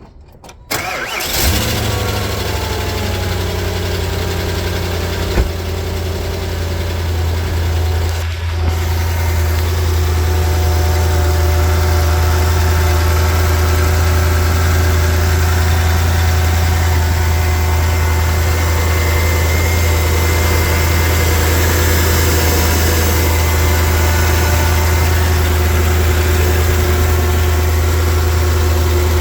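2010 Volvo XC90's 4.4-litre V8 cold-started after sitting three or four days: a brief crank about a second in, then it catches, flares and settles into a steady idle.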